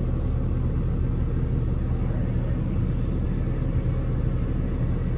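Box truck's engine running steadily, a low rumble heard from inside the cab.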